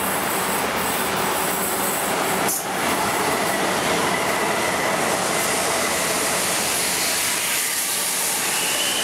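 Electric commuter train running alongside the platform at close range: a steady, loud rush of wheel and rail noise, with a faint high-pitched wheel squeal in the middle.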